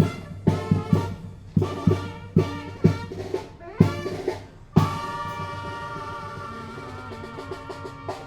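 Tamborazo band playing: trumpets and trombones over sharp drum strokes about twice a second, then a long held brass chord from about five seconds in.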